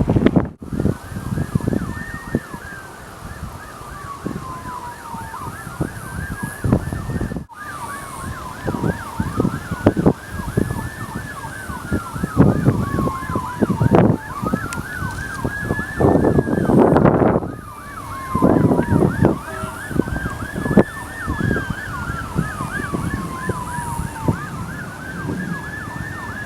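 Emergency vehicle sirens sounding: a slow rising-and-falling wail and a rapid yelp at the same time, repeating throughout. Low rumbling gusts of wind on the microphone underneath.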